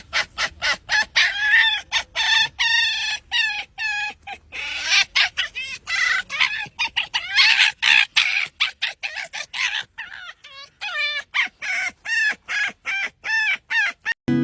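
Rapid clucking calls from a bird, several short calls a second with a few longer drawn-out ones mixed in. They go softer for a moment about two-thirds of the way through and then stop abruptly at the end.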